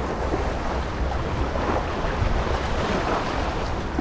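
Steady rush of water from a city outflow pouring into the river, with wind rumbling on the microphone.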